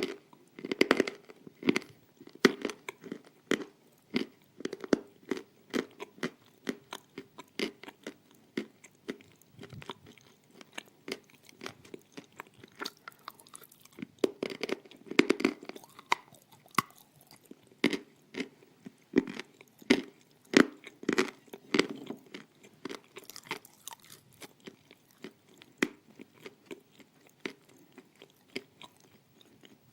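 Close-miked crunching and chewing of pieces of dry edible clay: irregular sharp crunches in quick clusters, with brief lulls between mouthfuls.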